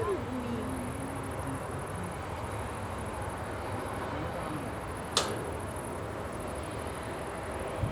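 Steady outdoor background noise with insects chirring in a continuous high, pulsing band, and one sharp click about five seconds in.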